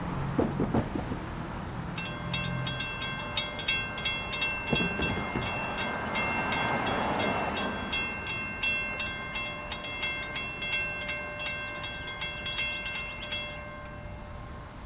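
Railroad crossing warning bell ringing in a steady, even rhythm of about two and a half strikes a second. It starts about two seconds in and stops shortly before the end.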